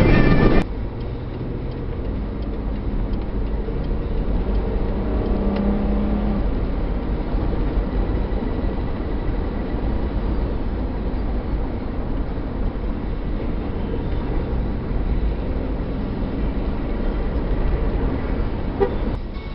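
Steady low rumble of a truck's engine and road noise heard inside the cab while driving, the engine pitch rising briefly a few seconds in.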